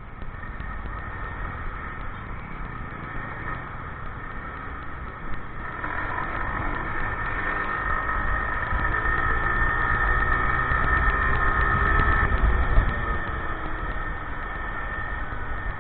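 Motorcycle engine running at low speed in city traffic, over a low rumble. A steady high whine grows louder from about six seconds in and drops away shortly after twelve seconds.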